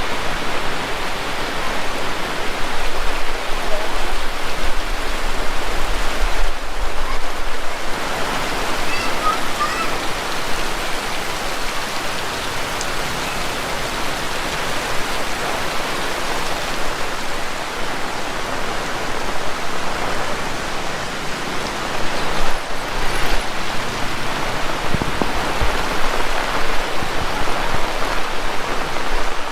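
Heavy rain falling steadily, a dense, even hiss of water, with a brief lull twice.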